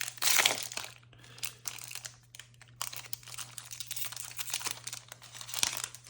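Trading cards being handled and flipped through by hand: a run of soft crackling clicks and rustles, with a louder rustle about half a second in.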